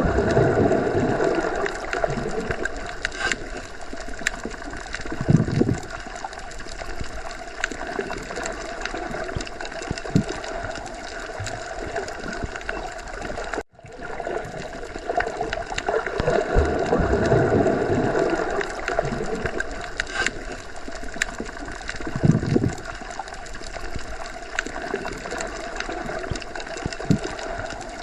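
Underwater sea ambience: a steady wash of water noise with gurgles, swelling twice, cut off for an instant about halfway through.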